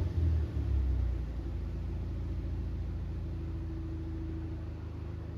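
Daihatsu Copen's 660 cc turbocharged four-cylinder engine, breathing through a Sakuramu aftermarket silencer, settling from a rev back to a steady idle in the first half-second, then idling with a low, even exhaust note that slowly gets quieter.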